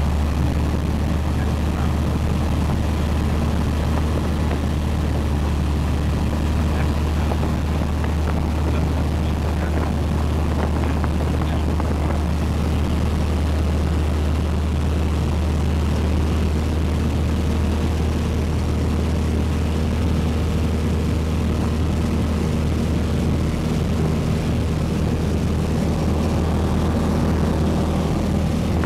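Piper Cherokee's piston engine and propeller running with a steady, loud drone.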